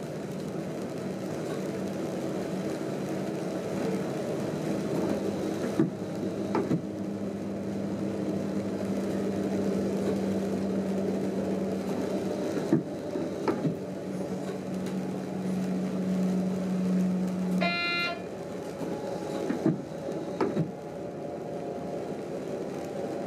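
Running noise inside a train driver's cab, with scattered faint clicks and knocks. A steady low drone cuts off suddenly about three quarters of the way through, and right after it a short high electronic beep sounds.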